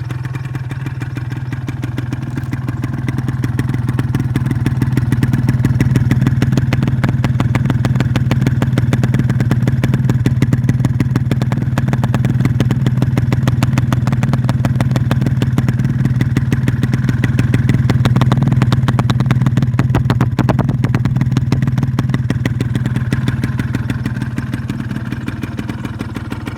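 Restored Ya Speed 120cc motorcycle engine running steadily at low revs, the revs rising a little a few seconds in and easing off again near the end.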